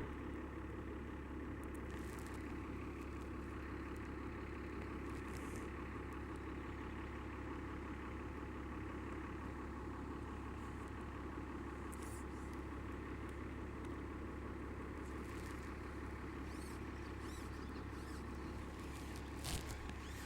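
A steady, even mechanical hum like a motor running, with a few faint clicks over it.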